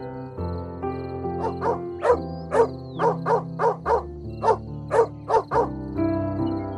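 A dog barking about a dozen times in quick short barks, over background music with held chords.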